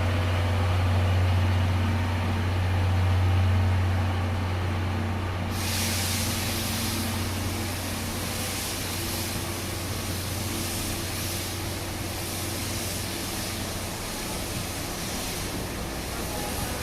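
A train standing at the platform with a steady low hum. About five and a half seconds in, a sudden loud hiss of compressed air starts, like air brakes venting, holds for about eleven seconds and then stops abruptly.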